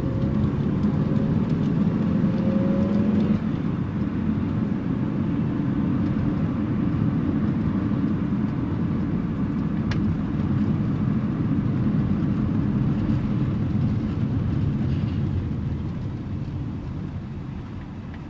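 Nissan N12's 1.5-litre E15S four-cylinder engine pulling the car along on a drive. It rises in pitch for the first few seconds and drops off at about three and a half seconds, then runs steadily with road noise. It fades away over the last few seconds.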